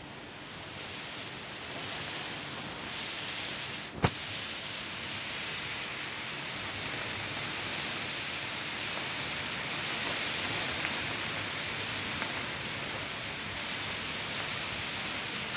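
Heavy rain pouring down steadily, a dense even hiss, with a single sharp click about four seconds in.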